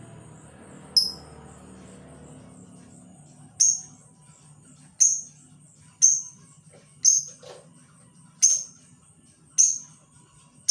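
Labet decoy bird giving short, sharp high call notes, eight of them spaced about a second apart, over a steady high pulsing trill.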